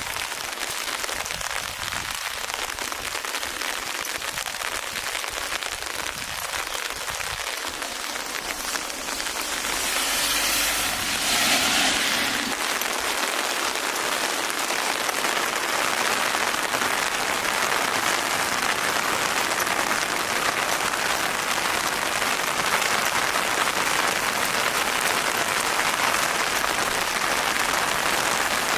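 Steady rain falling and pattering on surfaces as a dense hiss. It grows a little heavier about a third of the way in, with a brief louder swell around then.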